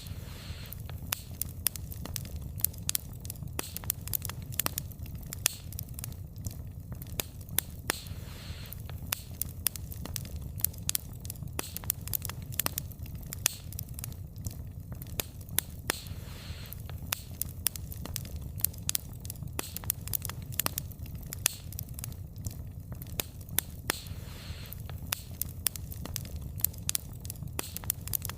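Wood fire burning, with a steady low rumble and frequent sharp crackles and pops from the burning logs.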